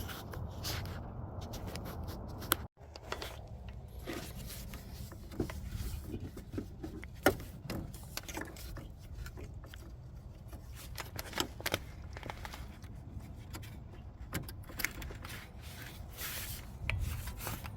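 Scattered small clicks, clinks and scrapes of hands and tools working under a car on the exhaust, fitting the downstream O2 sensor wire into its bracket clip.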